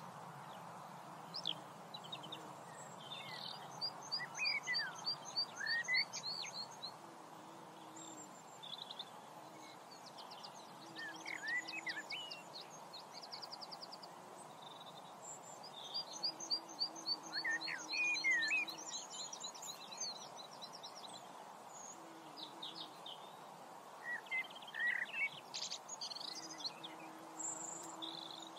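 Songbirds singing: phrases of rapid, high trilled notes mixed with short sweeping calls, coming back every few seconds over a steady background hiss.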